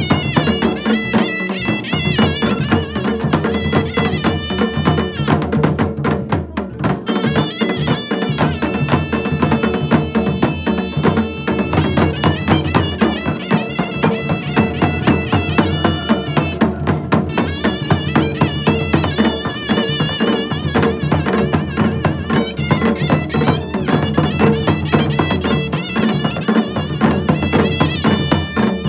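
Pahari Nati folk dance music playing, with melodic instruments over a steady, driving percussion beat.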